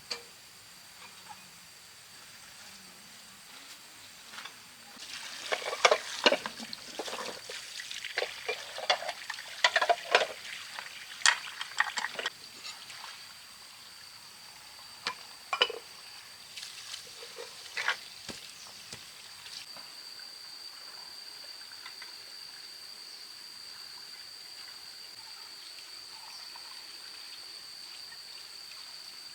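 Water splashing and trickling in irregular bursts for about fifteen seconds, over a steady high-pitched tone that grows louder near the end.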